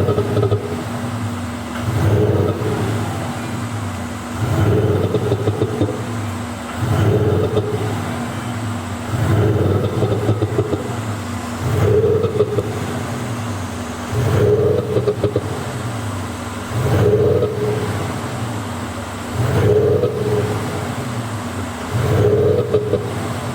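Audi A7 (C8) 50 TDI diesel revved over and over, about every two and a half seconds, with an active sound booster giving it a synthetic performance exhaust note. Each rev ends in pop-and-bang crackles.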